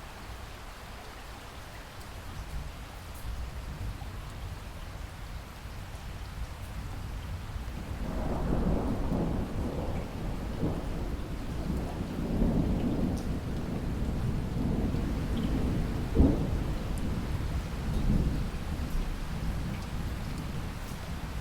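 Steady heavy rain with a long roll of thunder that builds about a third of the way in, rumbling on for several seconds with one sharp crack partway through before dying away near the end.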